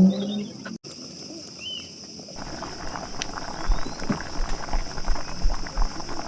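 Steady high-pitched insect drone, with irregular crackling and low rumbles setting in about two seconds in. A low pitched hum at the very start cuts off within half a second.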